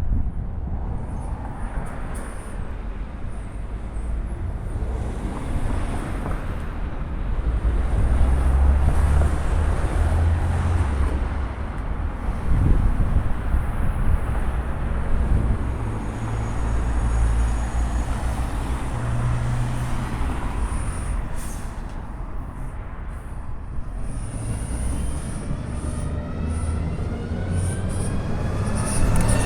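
A train running on the line: a steady rumble of wheels with a low engine drone, swelling and easing over several seconds.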